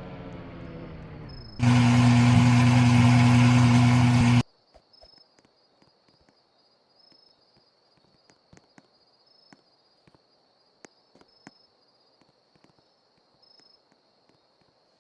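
Car engine revs falling away, then a loud steady engine note for about three seconds that cuts off abruptly. After that there is only a faint outdoor background of scattered ticks and a thin, steady insect-like chirr.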